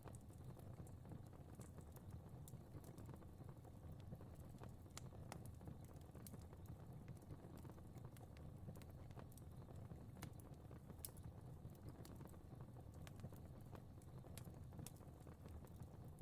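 Fire crackling quietly: irregular small pops and snaps over a soft, steady low rumble.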